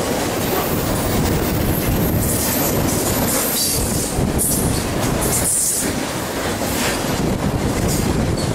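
Freight cars of a double-stack intermodal train rolling past close by: steady, loud wheel-on-rail noise, with high-pitched wheel squeals coming and going.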